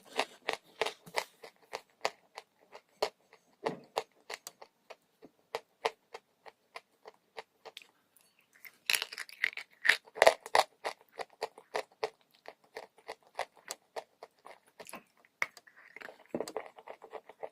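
Dry chalk being bitten and chewed close up: a run of sharp, crisp crunches and crackles, thinning out for a moment and then coming thick and loud in a burst of chewing about halfway through.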